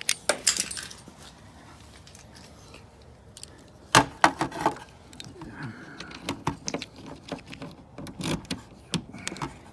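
Car key and fob jangling, with the metal emergency key clicking against and into the trunk lock. A few clicks come near the start, a loud cluster of clicks about four seconds in, and lighter scattered clicks follow.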